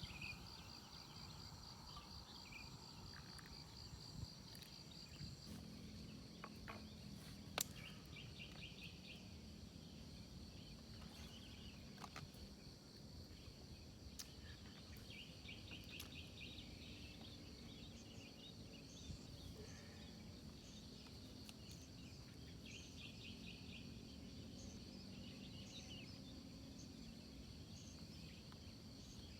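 Faint insects chirping at a campsite: a steady high trill at first, then repeated short chirping runs, with a few scattered soft clicks and a low steady hum underneath.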